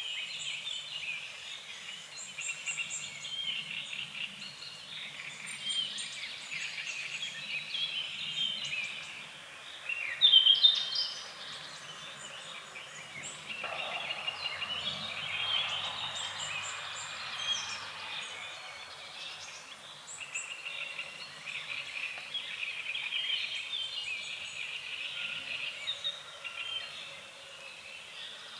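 A chorus of frogs croaking in fast pulsed calls without a break, with birds chirping above them. A single loud, rising bird-like call stands out about ten seconds in, and a soft rushing noise rises and fades a little past the middle.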